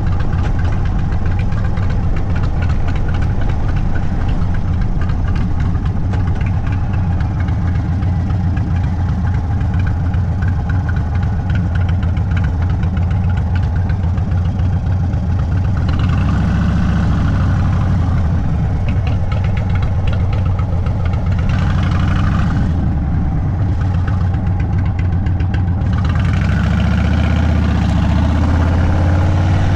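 Indian Sport Chief's Thunderstroke 116 V-twin running through a Sawicki Speed exhaust: a steady low rumble at low revs for the first half, with the engine note rising near the end as it speeds up.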